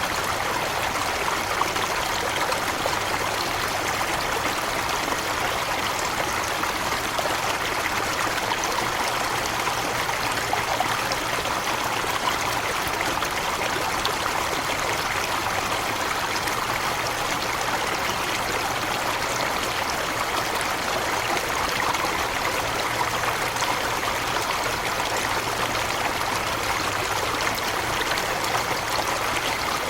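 Forest waterfall: water falling and splashing steadily.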